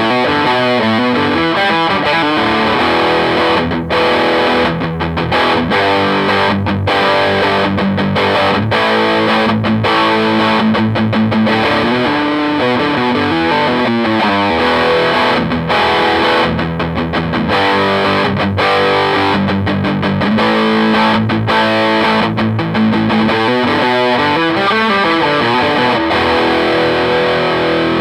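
Gibson Les Paul Studio electric guitar played through a Marshall JTM60 amplifier with a distorted tone: runs of quick single notes and held chords, with a few short breaks between phrases.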